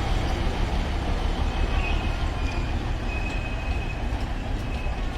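Alishan Forest Railway narrow-gauge train running into the station: a steady low rumble of locomotive and wheels, with a faint high squeal from the wheels from about two seconds in.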